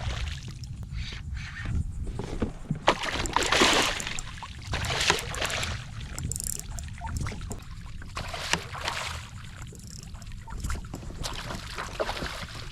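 Water splashing and sloshing beside a kayak in uneven bursts, with a few sharp knocks, over a steady low rumble of wind on the microphone.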